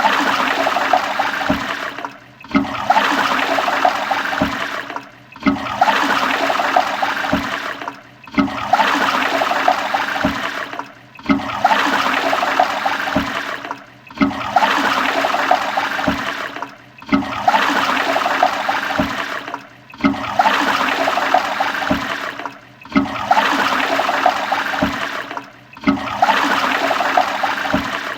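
Toilet flushing: a rush of water that repeats about every three seconds, each one broken off by a brief drop in level before the next.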